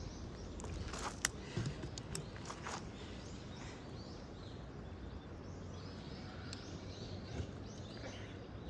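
Steady outdoor background noise with a few sharp clicks or knocks in the first three seconds. After that come repeated short bird chirps.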